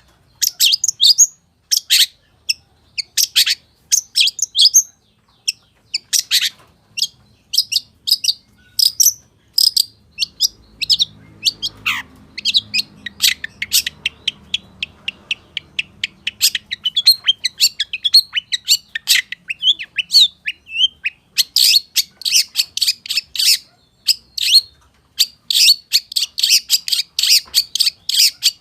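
Long-tailed shrike (pentet) singing a fast, varied song of sharp chirps, sweeps and trills, full of mimicked calls of other birds. Very rapid strings of notes pack together near the end.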